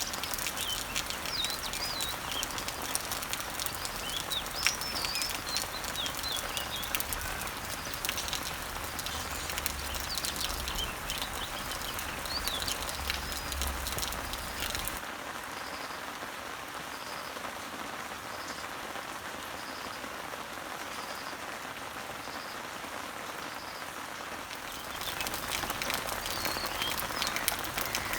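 Rain pattering on garden leaves, dense with drips, while small birds chirp in the background. About halfway through the pattering turns softer and smoother, with a faint high chirp repeating about once a second, and it grows busier again near the end.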